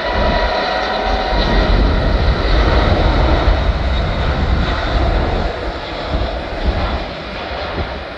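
Airbus A380-800's four jet engines at takeoff power as the airliner departs: a deep, heavy noise that builds, is loudest a few seconds in, then fades.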